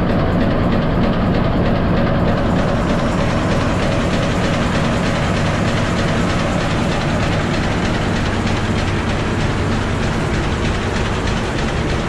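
Antique machinery running with a steady, rapid mechanical clatter.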